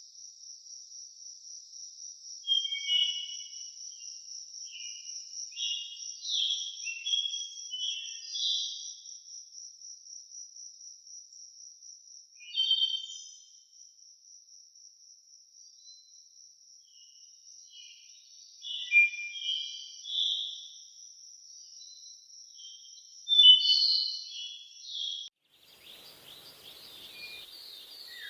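Forest ambience: an insect keeps up a steady, high, finely pulsed trill while birds chirp in short bursts every few seconds. About 25 seconds in, the sound cuts abruptly to a different forest recording with a soft hiss and other birdsong.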